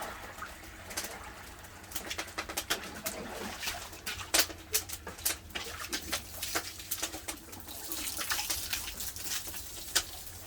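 Firewood burning under a cast-iron cauldron, crackling with irregular sharp pops and snaps.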